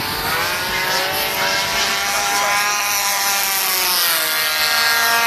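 Single-cylinder two-stroke DLE 20cc gasoline engine of a large RC warbird model plane running at high power in flight, a steady buzzing drone whose pitch falls near the end as the plane passes by.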